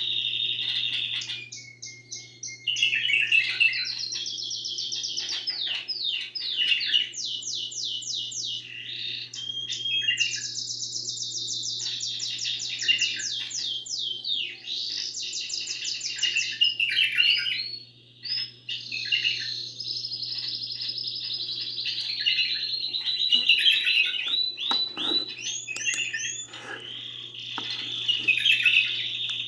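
Songbird singing continuously in long runs of fast trills and rapidly repeated notes, with short breaks about two seconds in and again around eighteen seconds, over a low steady hum.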